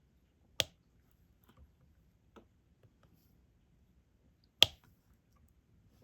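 Sharp clicks of a diamond painting stylus pressing resin drills onto the sticky canvas: two loud clicks about four seconds apart, with a few faint ticks between them.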